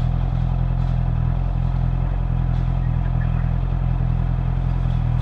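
Honda CB650R's inline-four engine idling steadily, with a few faint light ticks.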